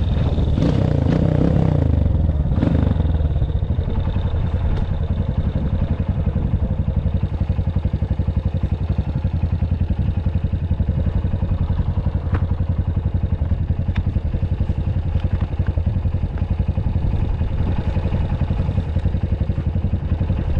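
Honda CRF230F's single-cylinder four-stroke engine revving up and down for the first couple of seconds, then running steadily at low revs. A few sharp clicks stand out about halfway through.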